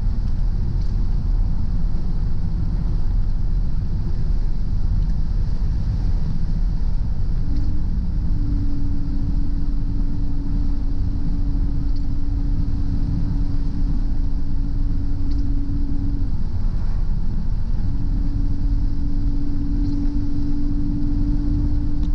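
Car driving on the road: a steady low rumble of road and engine noise. A steady droning hum joins in about a third of the way through, drops out briefly, and returns near the end.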